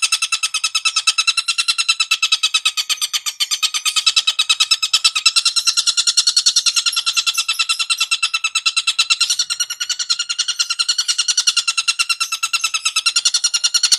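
Songbird calling in a continuous fast trill of evenly repeated, rattling notes, several a second, holding one steady pitch: a looped bird-lure call.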